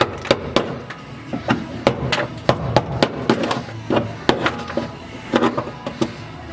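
Rapid, irregular chisel strikes, about two to three a second, chipping old tar-like sound deadening off the steel floor pan of a 1973 BMW 2002, the deadening made brittle by freezing it with dry ice.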